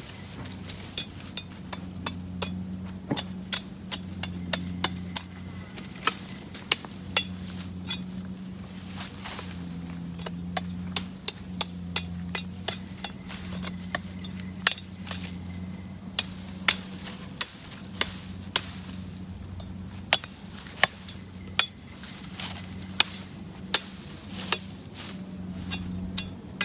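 Repeated sharp knocks, like tool strikes, at an uneven pace of about one a second, over a steady low hum.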